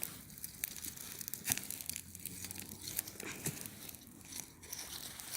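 Campfire crackling: irregular sharp snaps and pops of burning wood, a few each second.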